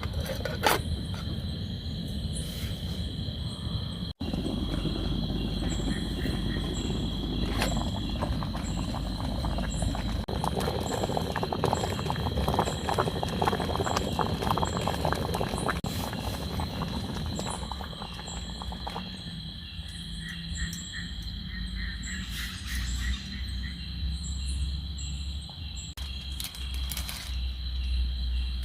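Night insect chorus: crickets keep up a steady high trill, with a second insect chirping in short pulses about twice a second. Underneath is a low, even rumble of outdoor noise, busier with faint crackling for the first two-thirds.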